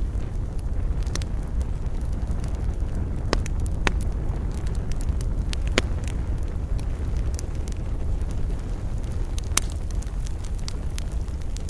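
Wood campfire burning, with a steady low rumble of flames under irregular crackles and sharp pops from the burning wood.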